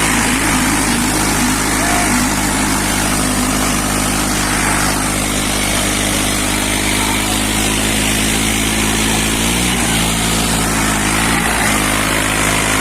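Tractor diesel engines running steadily under load in a tug-of-war pull, with two brief dips in engine speed near the end.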